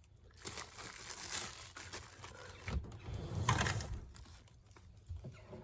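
Faint, irregular rustling and crinkling handling noise, louder in a short patch a little past the middle.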